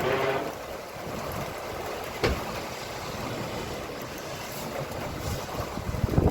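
Strong wind rushing and gusting over a phone's microphone, with a steady rush of rain, and a single sharp knock about two seconds in.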